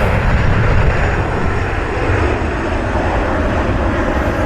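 Jet airliner's engines, a loud steady rumble and rush.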